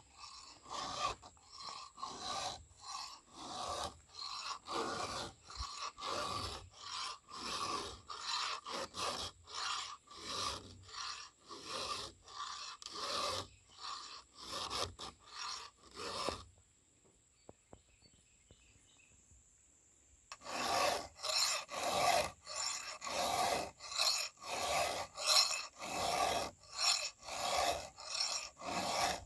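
A hand file rasping across the cutting teeth of a chainsaw chain in steady strokes, about two a second. The strokes stop for a few seconds past the middle, then start again a little louder.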